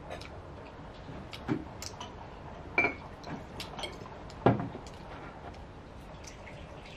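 Eating and handling things at a table: a handful of sharp clicks and knocks from a glass beer bottle, an enamel mug and tableware. The three loudest come about one and a half, three and four and a half seconds in.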